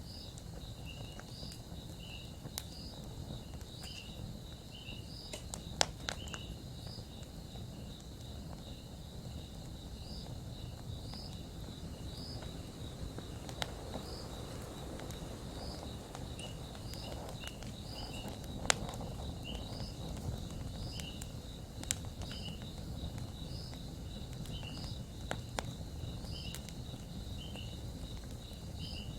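Campfire crackling, with scattered sharp pops over a steady low noise, while insects chirp in a regular repeating pattern.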